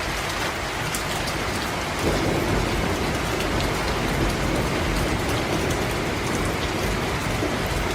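Steady rain falling on forest leaves and ground, a dense hiss with many distinct drop ticks; it grows a little louder and fuller about two seconds in.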